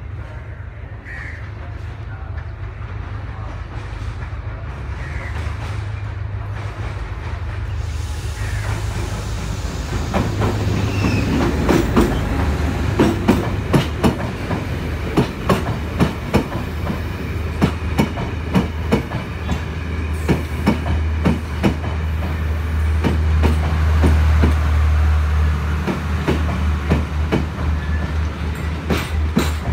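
Sri Lanka Railways Class S13 diesel multiple unit approaching with a low rumble that grows louder, then passing close by. From about a third of the way in, its wheels click over the rail joints in a steady clickety-clack as the coaches go past.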